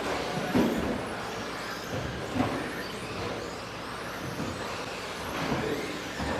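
Several 2WD 13.5-turn brushless RC stadium trucks racing. The electric motors whine, rising and falling over a steady noise of the cars on the track, with two sharper knocks, about half a second in and again near two and a half seconds.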